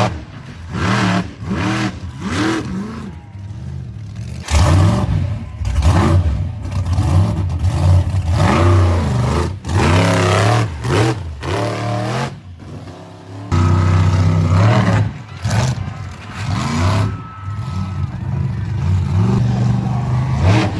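Monster truck engines revving hard, the pitch climbing and falling again and again, with sudden changes in loudness.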